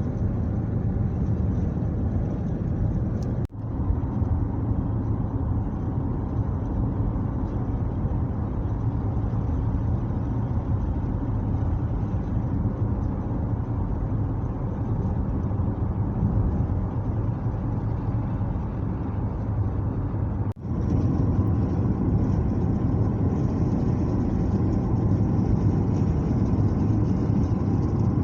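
Steady road and engine rumble of a car driving. It breaks off for an instant twice, about three and a half seconds in and about twenty seconds in, then carries on.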